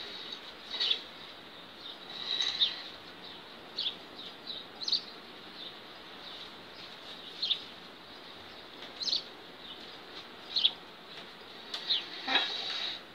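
Short, high chirps at irregular intervals, about a dozen in all, like small birds, over a steady faint high-pitched tone and a background hiss.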